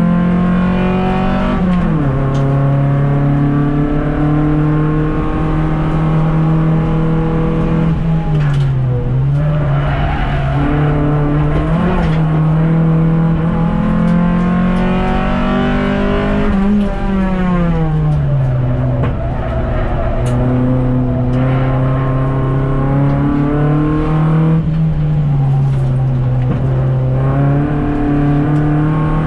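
Car engine heard from inside the cabin under hard driving. Its note climbs under acceleration and drops sharply at gear changes and when slowing, several times over.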